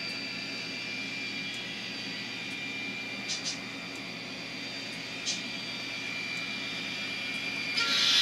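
Sampled F40PH diesel locomotive engine sound from an ESU LokSound Micro decoder, played through the model's tiny speaker: a steady, thin mechanical drone with a hiss, broken by a few short clicks. Near the end it suddenly gets much louder and harsher.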